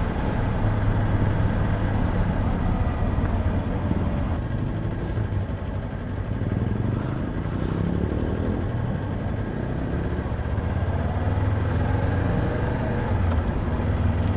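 Rusi KR200 dirt bike's engine running steadily under way, with wind and road noise, easing off slightly about six seconds in.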